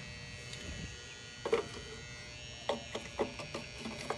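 A few short, sharp clicks and knocks from about one and a half seconds in, as the pull-out block of an HVAC unit's electrical disconnect is handled and pushed back into its box, over a faint steady hum.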